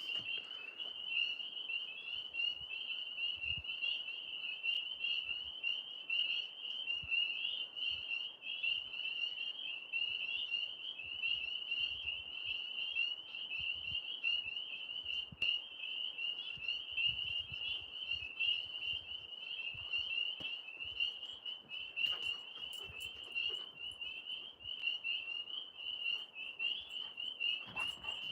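A chorus of tree frogs: many high-pitched calls overlapping into one continuous shrill band of sound.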